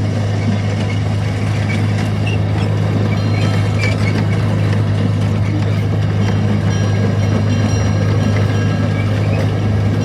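Mine train amusement ride running with a steady low hum.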